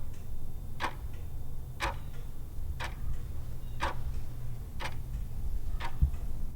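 Clock ticking, one sharp tick about every second, six in all, over a steady low hum: a countdown-timer sound effect running while the quiz question waits for its answer.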